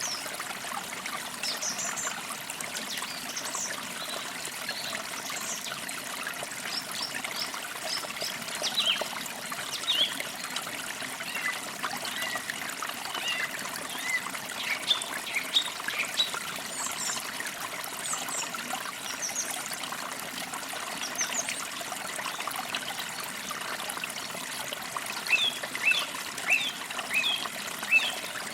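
A small forest creek trickling steadily over stones, with birds chirping, short high calls and trills scattered throughout and bunched near the start and again near the end.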